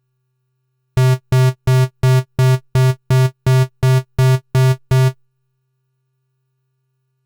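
Roland Juno-106 analog synthesizer sounding the same low, bright note twelve times in a quick, even repetition of about three notes a second, each note short and cleanly cut off, then stopping.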